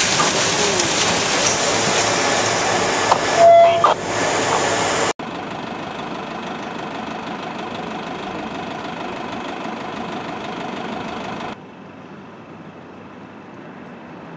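Steady noise of running vehicle engines, with a short steady tone about three and a half seconds in. The sound drops abruptly in level twice, at about five and eleven and a half seconds.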